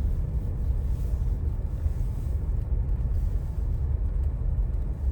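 Steady low rumble of a car being driven on a snow-covered road, engine and tyre noise blended together.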